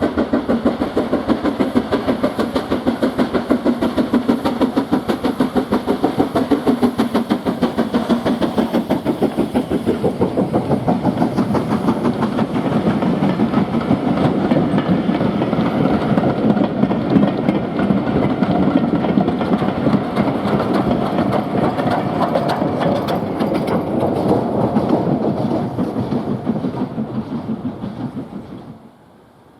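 Steam locomotive working a train, its exhaust beats coming in a fast, even rhythm. The sound cuts off suddenly near the end.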